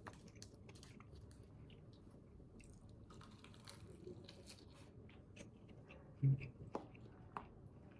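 A person chewing a mouthful of rice with tuna and seaweed close to the microphone, with small crunchy clicks. A brief louder low sound about six seconds in, then two sharper clicks.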